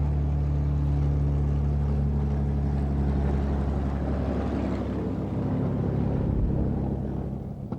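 P-51 Mustang's V-12 piston engine running with a steady low drone. About four seconds in the sound turns rougher and noisier, then fades near the end.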